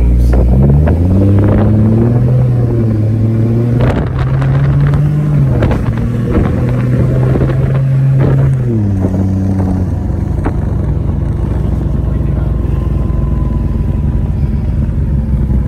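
Turbocharged Lexus IS300's engine heard from inside the cabin as the car is driven. It revs up and drops back several times through the first nine seconds, then settles to a steady lower drone while cruising.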